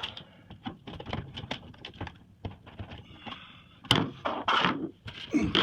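Tools and hands working at the screws of a washing machine's drain pump housing: scattered small clicks and taps, then a sharp knock about four seconds in, followed by scraping and handling noise.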